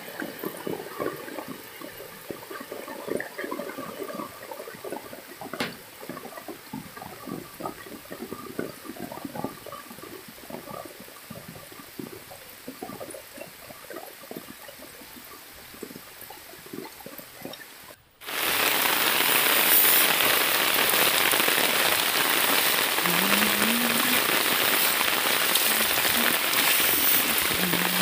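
Monsoon rain. At first, lighter rain with scattered drops pattering irregularly; after an abrupt cut about two-thirds of the way through, a heavy downpour hisses steadily and much louder.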